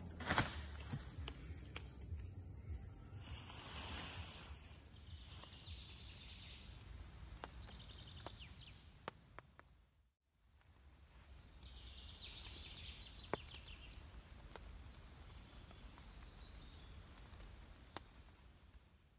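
Outdoor forest ambience: faint steady background noise with a high insect buzz that fades out over several seconds, scattered faint bird chirps and a few small knocks and clicks. The sound drops out for a moment about halfway, where the recording cuts.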